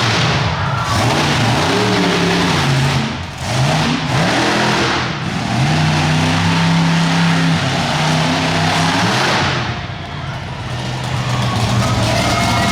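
Monster truck engine revving hard, its pitch climbing and falling over and over, with brief drops as the throttle comes off a few seconds in and again later.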